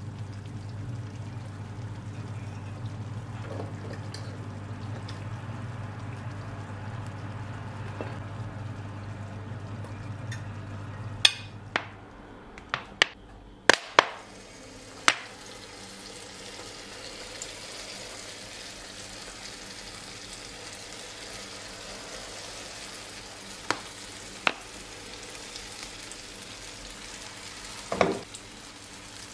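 Lokma batter squeezed in rings from a plastic bottle into hot oil in a frying pan, sizzling as it fries with a fine steady hiss. Before that there is a steady low hum, then a run of sharp clicks and knocks about halfway through.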